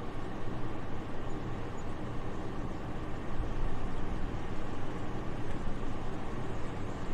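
Soft, steady wind: an even, airy rush with a low rumble underneath, with no gusts, breaks or other details.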